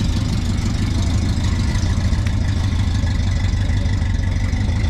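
A vehicle engine idling nearby: a steady, loud, low rumble with a quick, even pulse.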